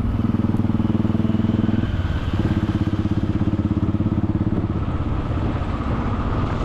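Motorcycle engine running with a steady pulsing beat, easing off briefly about two seconds in and again near five seconds.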